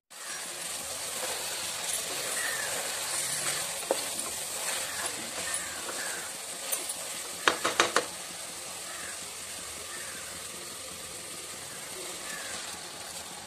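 Marinated chicken frying with a steady sizzle in a pot while a wooden spatula stirs it, with a quick run of knocks about halfway through as the spatula hits the pot.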